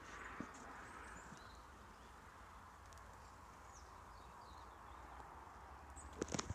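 Quiet outdoor ambience with faint, scattered bird chirps over a low hum, and a few sharp clicks near the end.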